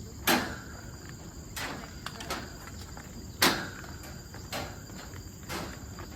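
Footsteps on a walking trail, about one a second, a few landing much harder than the rest, over a steady high buzz of insects.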